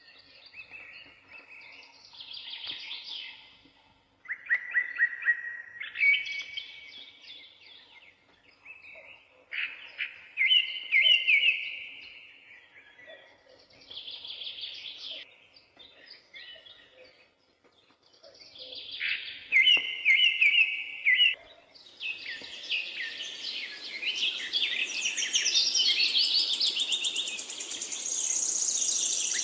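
Several birds chirping and singing in short repeated phrases, with brief gaps between bouts; about 22 seconds in, a denser chorus of calls sets in over a steady hiss-like background.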